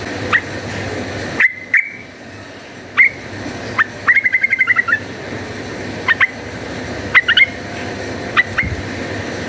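Yellow-vented bulbul calling: short, clear chirping notes scattered every second or so, with a fast run of about eight notes about four seconds in.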